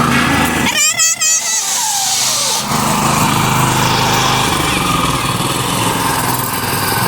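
A mini tractor's small engine running steadily. About a second in, it is briefly broken by a warbling high-pitched sound that slides down in pitch.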